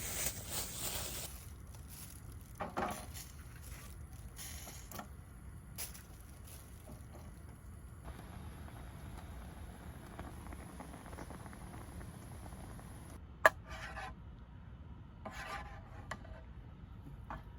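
Quiet handling sounds: scattered light knocks, clinks and scrapes over a low background rumble, with one sharp click about two-thirds of the way through. A faint, thin, high steady tone stops just before the click.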